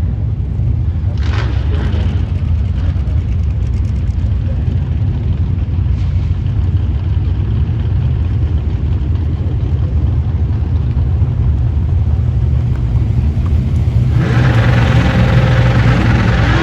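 Car engine running with a steady, deep rumble, then revving up louder and higher about two seconds before the end.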